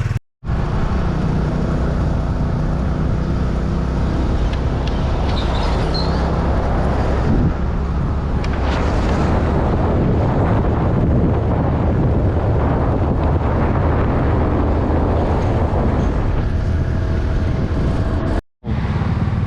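Motorcycle engine running steadily while riding, with wind and road noise rushing over the microphone. The sound drops out to silence twice for a moment, once just after the start and once shortly before the end.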